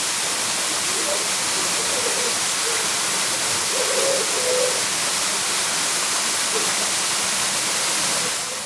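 Millomeris waterfall: water falling and splashing in a loud, steady rush, with faint voices about four seconds in.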